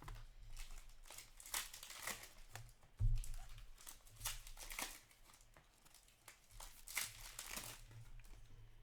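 Trading-card pack wrappers crinkling and tearing as hockey card packs are opened and the cards handled, in irregular crackly bursts, with a dull thump about three seconds in.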